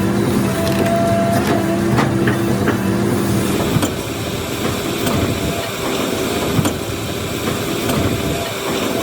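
A heavy machine's engine running steadily while wood cracks and splinters. About four seconds in, the sound changes abruptly to a rougher, noisier rumble with a few sharp cracks.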